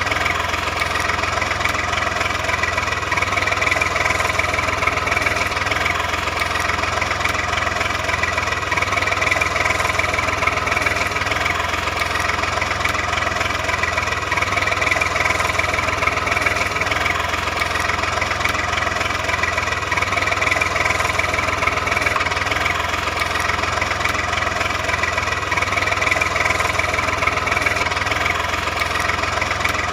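A motor running at a steady idle, an unbroken drone with a high whine and a low hum that neither rises nor falls.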